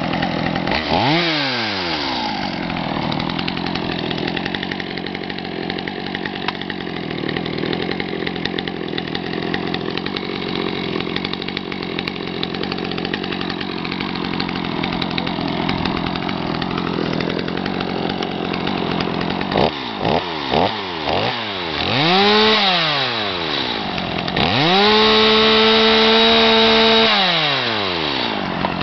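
Small Stihl two-stroke engine idling steadily, revved briefly about a second in. Near the end it gets three quick throttle blips, then a longer rev, then is held at high speed for a couple of seconds before dropping back to idle.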